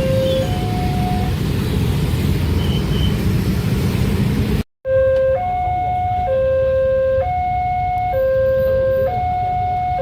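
Railway level-crossing warning alarm sounding, an electronic two-tone signal alternating between a lower and a higher note about once a second. A steady low rumble lies under it in the first half, and the sound cuts out for an instant about halfway before the alarm resumes.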